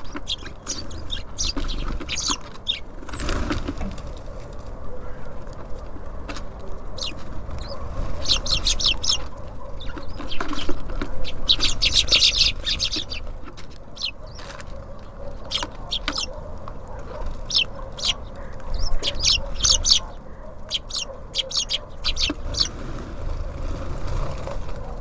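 Small birds at a feeder: short high chirps and clicks, often in quick runs, with wing flutters, over a steady low rumble.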